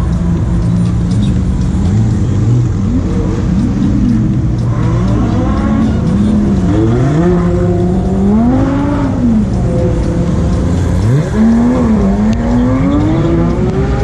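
Several sports-car engines running, first at a steady low idle, then repeatedly revving up and dropping back, with more than one engine's pitch rising and falling at once.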